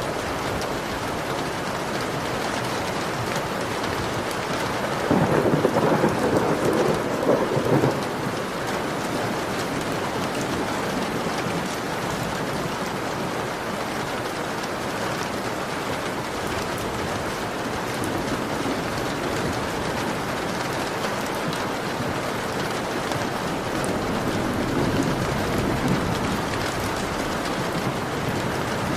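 Heavy rain falling steadily on a window, with a crackling rumble of thunder swelling in about five seconds in and fading after a few seconds, and a weaker swell of thunder near the end.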